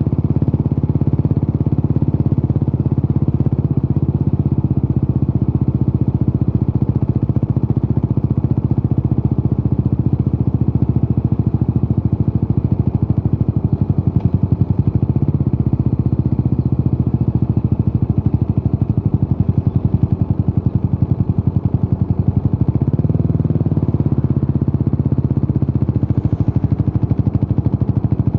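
Yamaha SR400's single-cylinder engine running through a Peyton Place conti-style muffler, a steady low-pitched pulsing exhaust at an easy riding pace. The engine note briefly rises and shifts a little past two-thirds of the way through.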